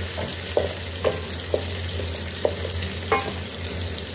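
Cumin seeds, chopped garlic and green chillies sizzling in hot oil in a metal pan, stirred with a wooden spatula that knocks against the pan several times with short ringing clacks. A steady low hum runs underneath.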